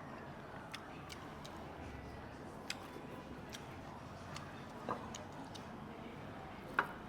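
Eating utensils clicking and tapping against dishes: a handful of short, sharp clicks at irregular intervals, the loudest near the end, over a low steady background hum.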